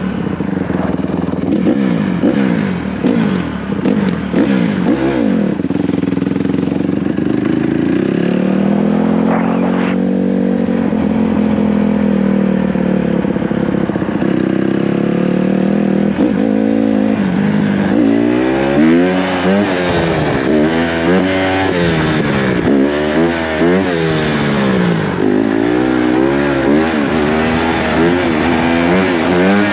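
Dirt bike engine revving, its pitch sweeping up and down. Midway it holds one long rise and fall, then from about two-thirds through it is blipped up and down about once a second.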